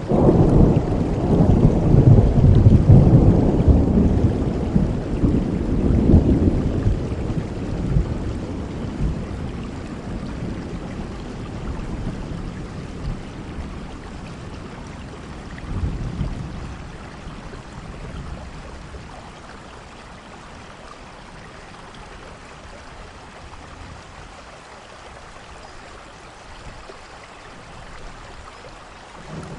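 Heavy rain with rolling thunder: a long low rumble over the first several seconds, a shorter one about halfway through, then steady rain that gradually grows quieter.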